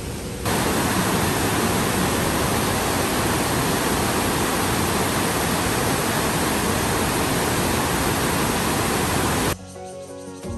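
Heavy rain falling steadily, a loud even hiss that starts abruptly about half a second in and cuts off about a second before the end.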